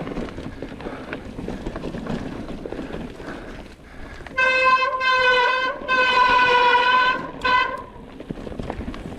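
Wind and riding noise, then about four seconds in a horn sounds three times at one steady pitch: two long blasts of over a second each and a short one.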